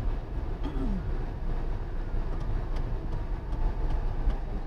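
Steady low rumble of a car driving, the road and engine noise heard through a dashcam, with a short falling tone about a second in.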